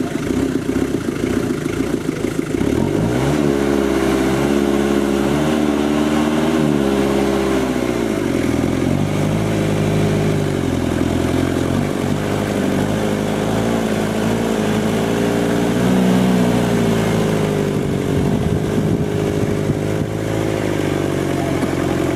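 Off-road 4x4's engine revving up and down under load as the vehicle works through a deep mud trench, its pitch climbing and falling several times, with the loudest rise around the middle.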